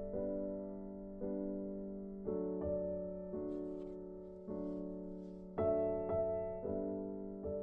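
Slow, soft piano music: sustained chords struck about once a second, each fading away.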